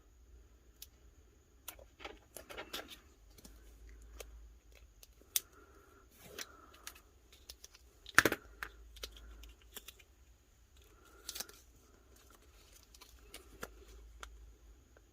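Paper and sticker pieces being handled: scattered short rustles and crinkles with small clicks, and one sharper tap about eight seconds in.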